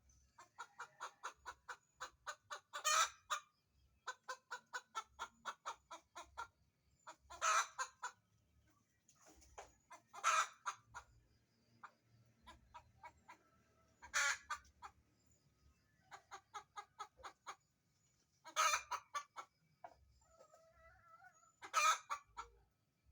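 Hen cackling: runs of quick clucks at about five a second, broken every few seconds by a louder drawn-out squawk. This is the restless calling of a hen looking for a place to lay her egg.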